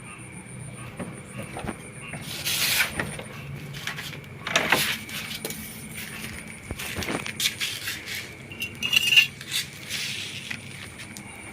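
Small hard objects being handled, with irregular clinks and rustling, a few louder ones about two seconds in, near the middle and near the end, over a faint steady high-pitched tone.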